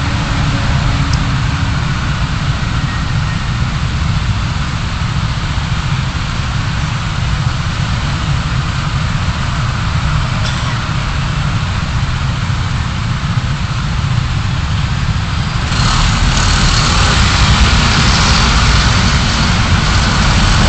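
Car driving, recorded by a dashcam: a steady low rumble of engine and road noise. About three-quarters of the way through, a louder hiss rises over it and stays.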